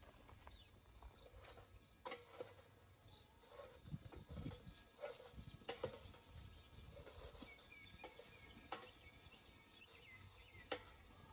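Faint, scattered clicks and light rustling from a bee smoker being handled and lit with dry lavender sticks.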